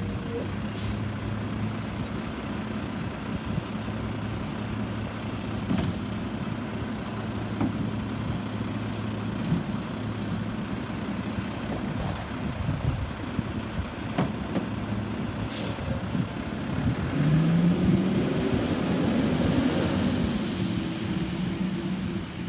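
Garbage truck engine running steadily, with a few short air-brake hisses, and the engine revving up, its pitch rising and wavering, in the last few seconds.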